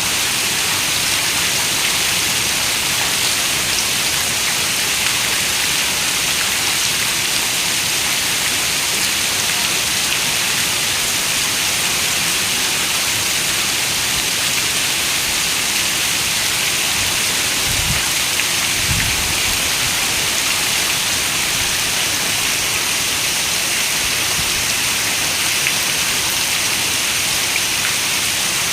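Steady heavy rain falling on a window, an even hiss with a brief low rumble about two-thirds of the way through.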